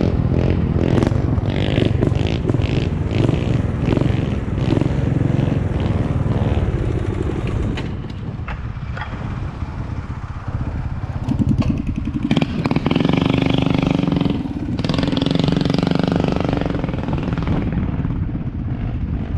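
Small motorbike engine running, its level dipping partway through and then picking up again with a stronger engine note.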